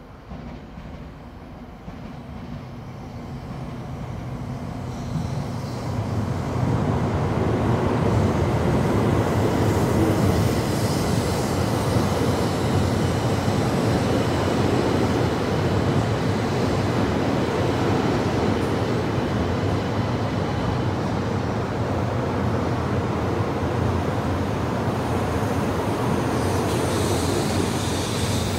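Shinkansen train running noise, likely the Sanyo Shinkansen Rail Star (700 series) that the video features: a rushing rumble that builds over the first several seconds, then holds steady and loud.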